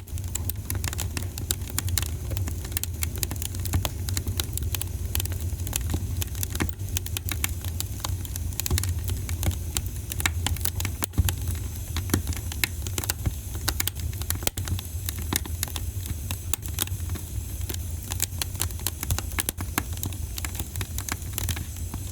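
Fireplace fire crackling, with dense, irregular sharp pops and snaps over a steady low rumble.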